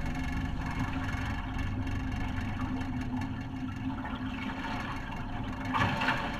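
Two 9.9 hp four-stroke outboard motors running together at a steady level, both running smoothly after a service.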